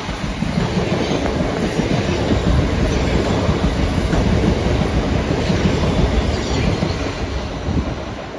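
Train running past on the rails: a steady, loud rumble of wheels and running gear that begins to fade near the end.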